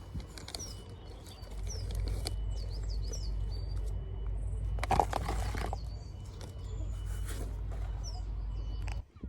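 Small birds chirping outdoors, repeated short falling chirps, over a low rumble that grows louder about a second and a half in. About five seconds in, a brief louder harsh sound stands out above them.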